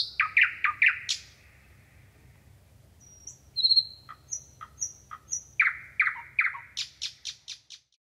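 Birds chirping and calling: a run of quick chirps, a short lull, thin high whistles, then louder chirps and a fast series of high notes near the end.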